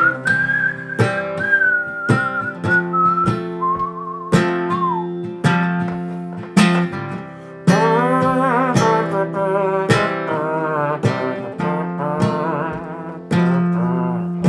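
Acoustic guitar strummed in a steady rhythm, with a whistled melody over it for the first five seconds or so. Later a wordless wavering vocal line comes in over the guitar.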